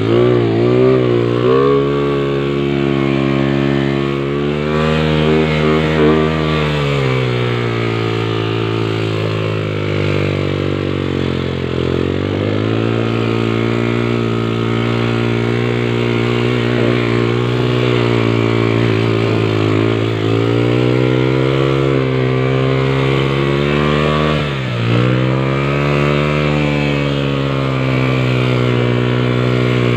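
Vehicle engine running steadily, its pitch rising and falling with the throttle, dropping and climbing back about twelve seconds in and again near twenty-five seconds.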